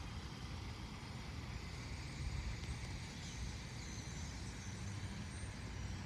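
A steady low rumble of distant road traffic, with a few faint, high sparrow chirps about halfway through.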